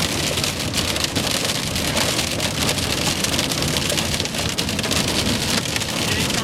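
Hail and heavy rain pelting down in a windstorm: a dense, steady rattle of small impacts over a low rumble.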